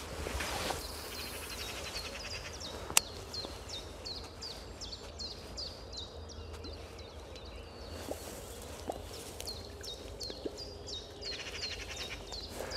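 A songbird calling a long run of short, high, falling notes, about two a second, with a single sharp click about three seconds in.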